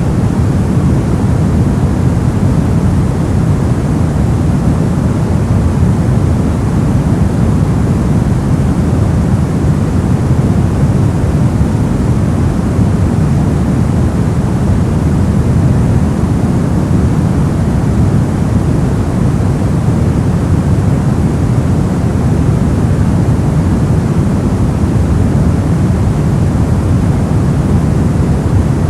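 Steady white-noise track used for sleep masking: an even, unchanging rush of noise, weighted toward a low rumble with little hiss on top.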